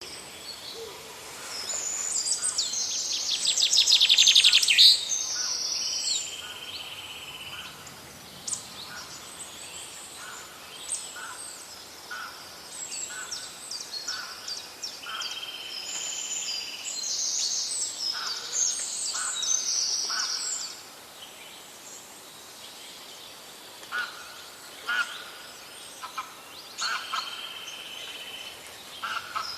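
Several songbirds singing, with repeated high whistled phrases and calls. Near the start, a rapid trill grows louder for a few seconds, then cuts off suddenly.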